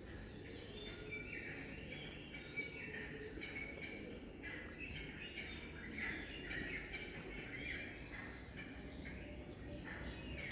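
Birds chirping and twittering in a busy chorus of short high notes, over a low background hum.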